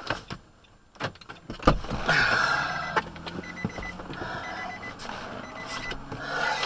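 A sharp thump about a second and a half in, then steady car noise with an intermittent high electronic beeping.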